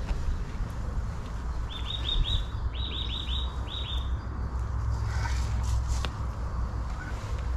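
A bird calling: three quick runs of short, falling high-pitched notes, a few notes per run, between about two and four seconds in. A steady low rumble, typical of wind on the microphone, lies underneath.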